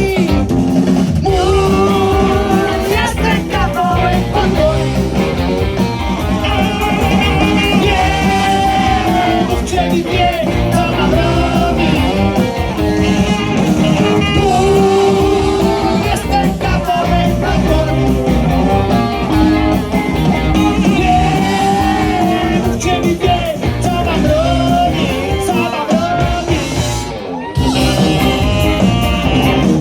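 Rock band playing, with a sung lead vocal over guitar and drums; the sound drops briefly near the end before the band comes back in.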